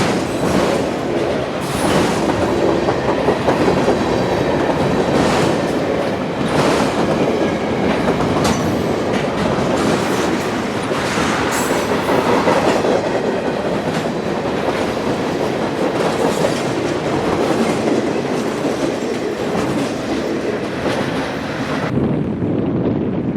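Freight train cars rolling past, steel wheels clacking over the rail joints in an uneven run of knocks. Near the end the sharper, higher part of the sound drops away.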